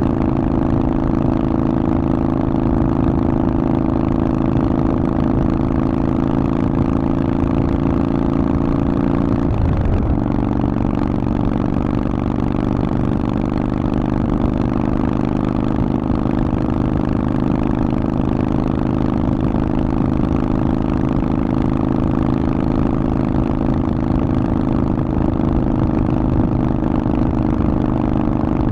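Harley-Davidson Forty-Eight's air-cooled V-twin running steadily through a Vance & Hines exhaust. Its note dips briefly about ten seconds in, then holds steady again.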